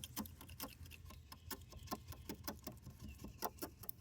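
A blade scraping on a car windshield's glass in quick, irregular short strokes, a faint scratchy ticking several times a second.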